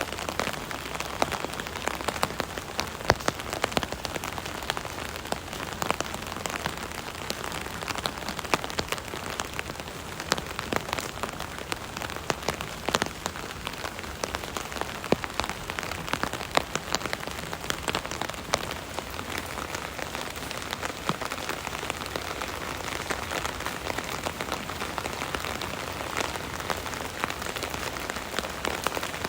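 Steady rain pattering on an umbrella overhead, a dense hiss of rain with many separate sharp drop hits on the canopy.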